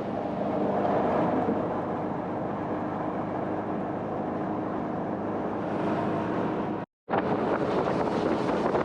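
Jet boat running at speed, its engine and jet drive under the rush of water and wind buffeting the microphone. The sound drops out to silence for a moment about seven seconds in.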